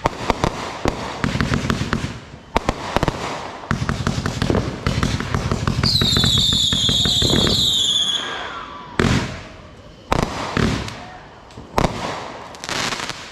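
Consumer fireworks going off: fast crackling strings of small reports, then a whistle falling in pitch about six seconds in, then several separate bangs near the end.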